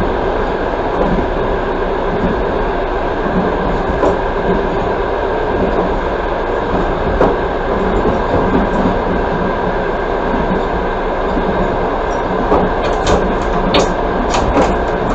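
Passenger train running at speed, heard from inside the carriage: a steady rumble of wheels on the rails, with a few sharp clicks near the end.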